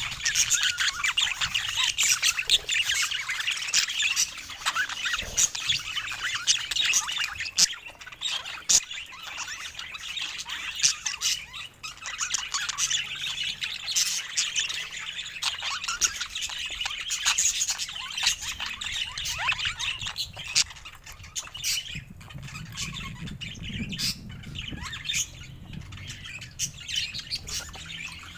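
Several budgerigars chattering, with dense chirping and sharp squawks and clicks that run on without a break.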